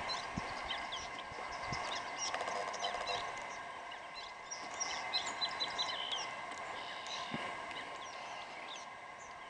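Songbirds singing from the shore: many short, high chirps and whistles overlapping from several birds.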